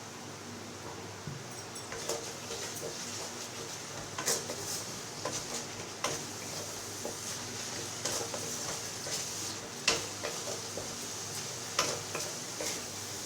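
Spatula stirring and scraping in a pan of onions frying in oil with ginger-garlic paste and salt, with a steady sizzle and scattered sharp clinks of the spatula against the pan.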